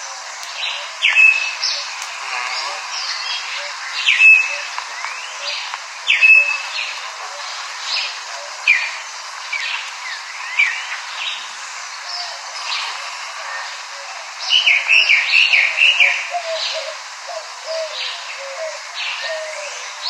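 Songbirds chirping, with many quick down-sweeping chirps throughout and a fast run of chirps about fifteen seconds in. The sound is thin, with no low end.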